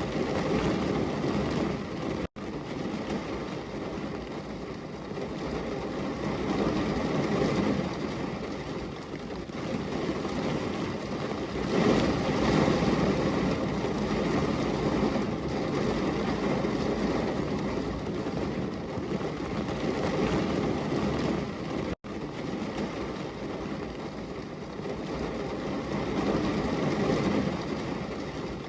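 Heavy rain recording: an even rushing noise that swells and eases, cutting out for an instant twice.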